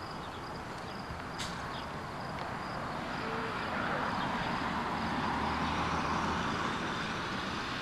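A vehicle passing, its road noise swelling to a peak about six seconds in and then fading, over a steady, evenly repeating high chirping of crickets.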